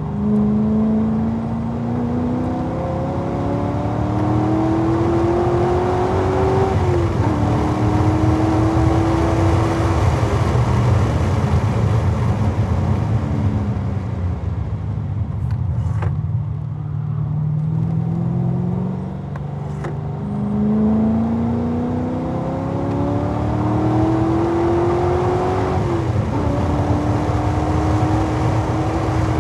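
2011 Corvette Z06's 7.0-litre V8 accelerating hard through the gears. The pitch climbs and drops back at each upshift. Around the middle it falls away as the car slows, then it climbs through the gears again.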